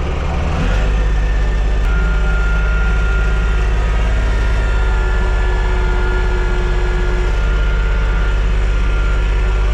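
TYM T224 subcompact tractor's three-cylinder diesel engine running steadily while working a box blade along a dirt road. About a second in its note drops lower and gets a little louder, then holds steady.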